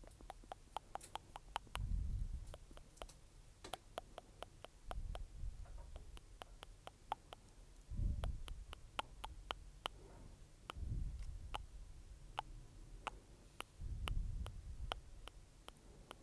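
Close-miked ASMR mouth sounds: quick wet tongue and lip clicks, several a second, with a soft low rumble every three seconds or so.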